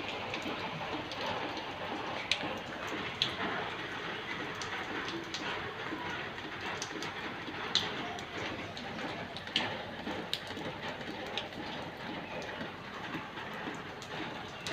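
Steady rain falling, with scattered sharp drops striking a hard surface every second or so.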